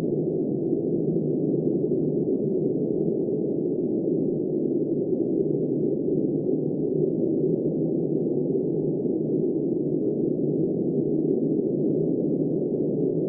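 Steady, muffled rushing of wind, low and even with no hiss, no gusts and no let-up.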